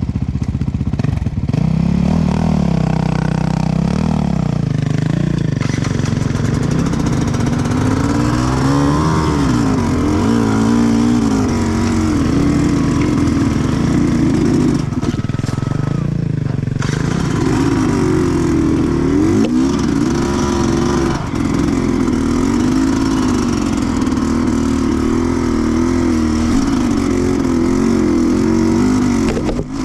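Sherco 300cc two-stroke enduro motorcycle engine under way on a trail, its pitch rising and falling again and again as the throttle is opened and closed.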